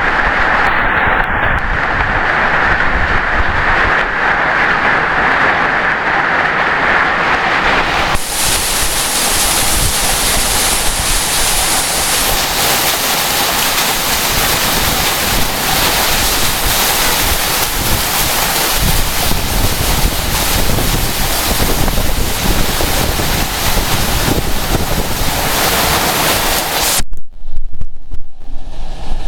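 Heavy storm rain pouring down with strong wind, a loud continuous rushing hiss that turns brighter and fuller about eight seconds in. Near the end the high hiss cuts out suddenly and wind buffets the microphone in loud, uneven gusts.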